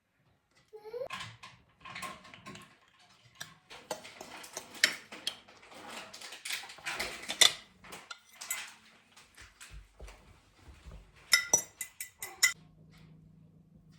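Kitchen dishes and metal cutlery clinking and clattering as food is prepared, with a quick run of ringing clinks near the end.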